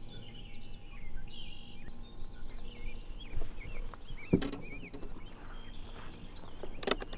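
Birds chirping and calling, many short rising and falling notes, over a steady low hum. A single sharp knock about four seconds in.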